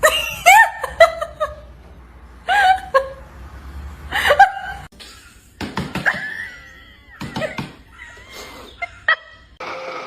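A person laughing in short bursts, with a longer high-pitched sound about six seconds in.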